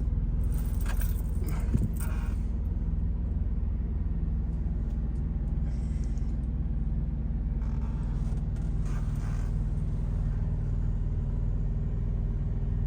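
Truck engine idling as a steady low hum, with brief rustling handling noises twice.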